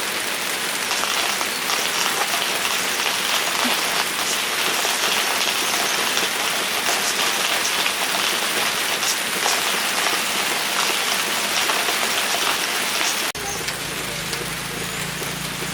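Steady rainfall, an even hiss with small drop ticks through it. About thirteen seconds in the sound changes abruptly and a low steady hum joins the rain.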